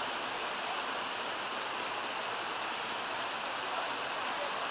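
Steady rushing of a creek falling through a cascade of waterfalls and rapids.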